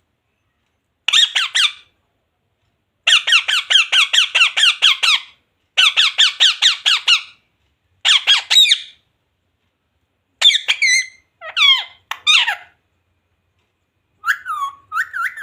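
Pet parrot calling in about seven bursts of fast, repeated high-pitched squawks with short pauses between them. The last burst is a more drawn-out, wavering call.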